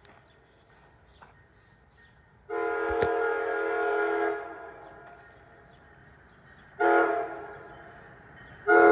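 An NJ Transit train's multi-chime horn sounding the grade-crossing signal: a long blast, a short blast, then the final long blast beginning near the end.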